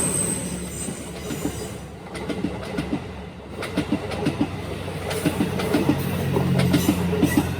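Passing coaches of a diesel-hauled passenger train, wheels clicking over rail joints in irregular groups over a low steady hum, after louder wheel noise dies down at the start.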